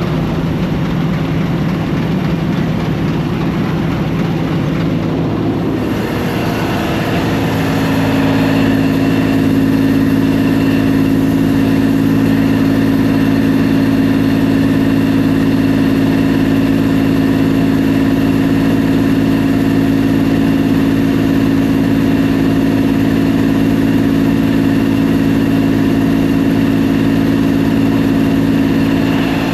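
Combine harvester running steadily. About seven seconds in, its engine note steps up in pitch and gets slightly louder, then holds there.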